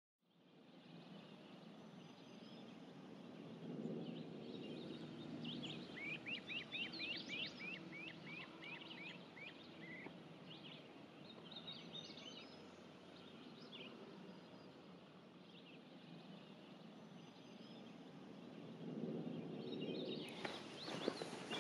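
Outdoor woodland ambience fading in from silence: several birds singing, one with a quick run of falling notes, over a low steady rumble. Near the end comes a patter of footsteps.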